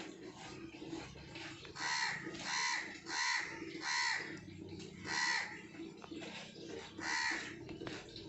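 A bird calling repeatedly: about six short calls, starting about two seconds in and spaced irregularly, over a low steady hum.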